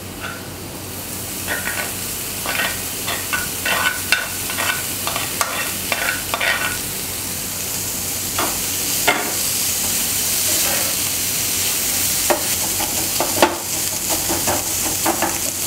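Crab meat frying in oil with onion masala in a nonstick pan, a steady sizzle that grows a little louder about a second in, with a spatula scraping and stirring the pan in quick repeated strokes.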